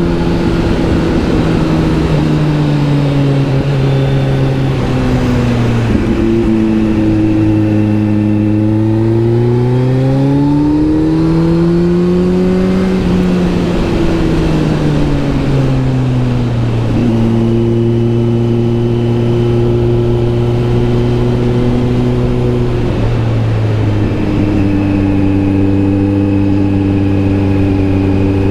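Kawasaki Z900 SE inline-four engine through an SC Project S1 aftermarket exhaust, heard from the bike while riding. The engine note rises and falls with the throttle, with a few abrupt pitch changes at gear shifts between stretches of steady cruising.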